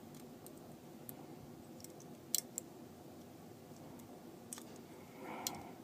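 Faint, scattered small clicks and taps of tiny parts and hand tools being handled while putting a phone button back in place, the loudest a quick double click a little before halfway.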